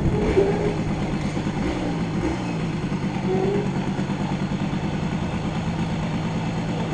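Motorbike engine running steadily at low speed, with a fast regular pulsing beat.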